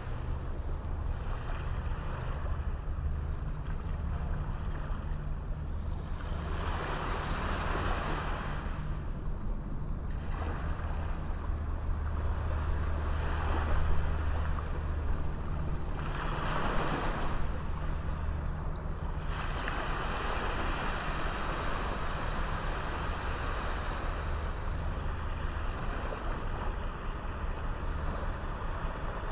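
Sea waves breaking and washing up a small beach, surging every few seconds and then washing steadily from about two-thirds of the way in, over a constant low rumble.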